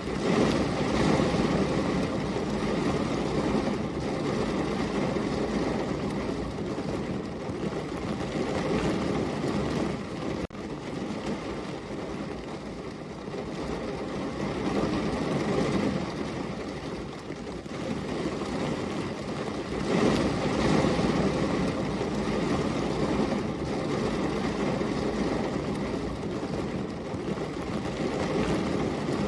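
Steady rain falling, a dense even noise that swells and eases in slow waves, with a brief dip about ten seconds in.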